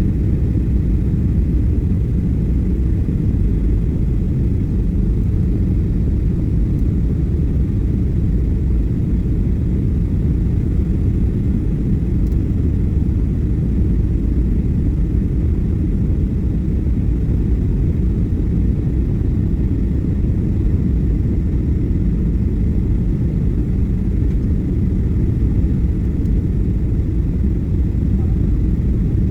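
Steady low rumble of jet engines and airflow heard inside an airliner cabin during descent, unchanging throughout.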